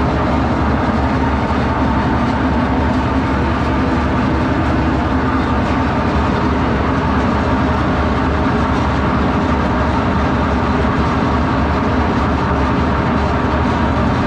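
Detroit diesel power unit of a hydraulic circle sawmill running steadily.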